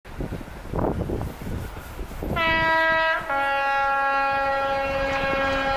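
Two-tone horn of a Class 73 electro-diesel locomotive: a high note begins about two seconds in and steps down to a lower note about a second later, which is held. Before it, the rumble of the approaching train.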